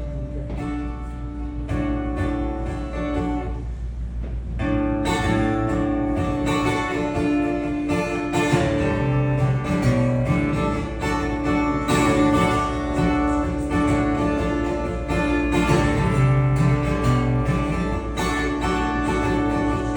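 Acoustic guitar playing a song's instrumental intro, ringing notes that grow fuller from about five seconds in.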